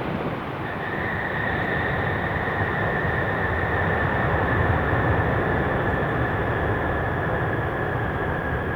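Boeing 747 jet engines passing close by, a steady loud rumble with a high whine that comes in about a second in and slides slightly lower.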